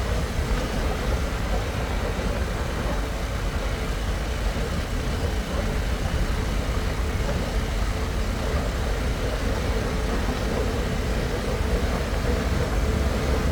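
Harley-Davidson Pan America's Revolution Max 1250 V-twin running steadily at cruising speed, with wind and road noise.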